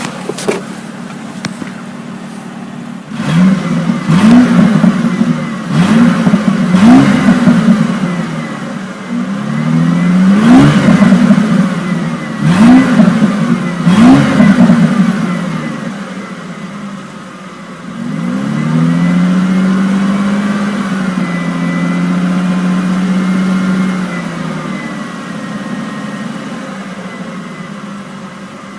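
2000 Ford Mustang's 3.8-litre V6 idling, then revved in a series of short throttle blips that rise and fall back. Near the middle it is revved up and held at higher revs for about five seconds, then settles back to a steady idle.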